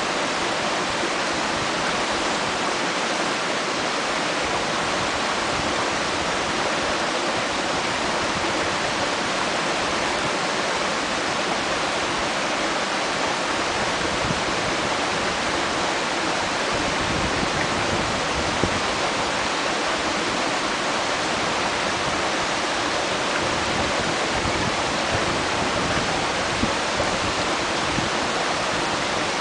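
Steady, even rush of a gorge stream's flowing water.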